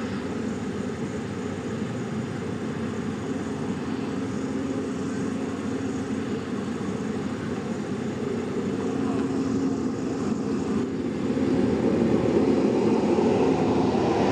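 Heavy diesel engine running steadily under load, getting louder about eleven seconds in.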